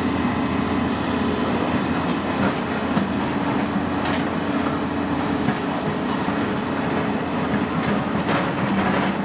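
Heavy machinery running steadily, taken for the excavator, with a constant low hum. A thin, steady high-pitched squeal joins about four seconds in.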